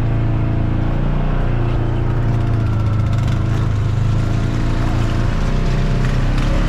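Off-road vehicle engine running at fairly steady revs, its pitch wavering slightly up and down.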